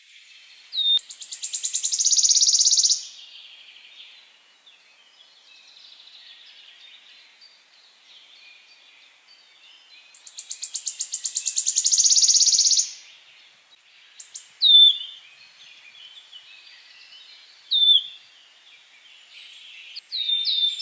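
Songbird singing: two loud, rapid trills, each about three seconds long and growing louder, about a second in and again about ten seconds in. Short falling whistle notes follow near the end, with soft twittering between.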